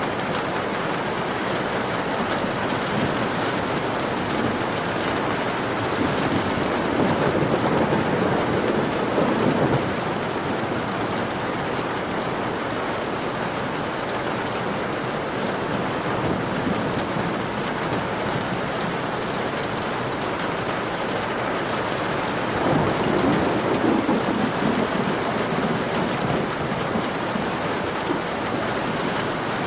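Steady rain falling against a window, with two louder rolls of thunder: one about six seconds in, the other a little past the twenty-second mark.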